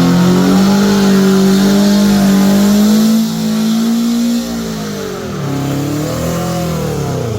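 Car engine revved and held high for about four seconds, its pitch creeping slowly upward, then dropping off, with one more brief rev near the end before falling back.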